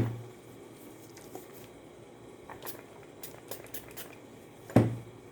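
Handling noises on a work surface: a sharp knock at the very start and another near the end, each with a short low ring, and a few light clicks and taps between them.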